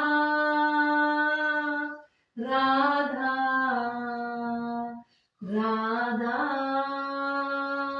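A woman singing a Hindi devotional bhajan without accompaniment: three long held notes, each drawn out for about two seconds, with brief breaths between them.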